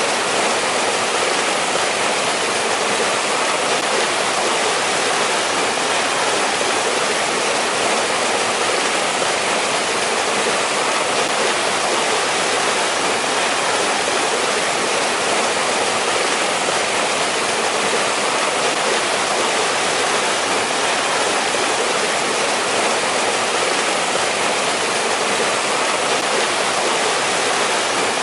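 Mountain stream water rushing over rocks, a steady, even hiss of flowing water.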